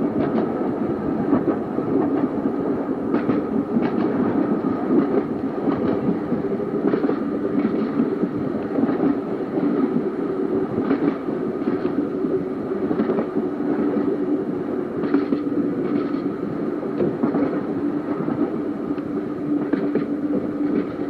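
Seaton Tramway tram running along the track: a steady running noise with a constant hum, and irregular sharp clicks from the wheels every second or few.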